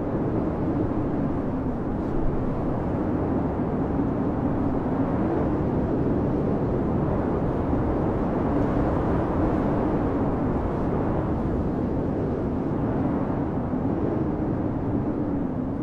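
Blizzard wind blowing steadily: a low, even rushing noise with a faint howl that wavers slightly in pitch.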